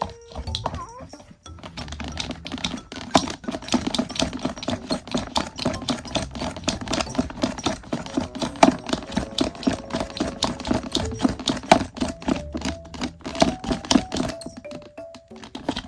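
A fast, uneven run of sharp clicks or scratches, several a second, starting about a second and a half in and stopping near the end, over background music with slow, stepping notes.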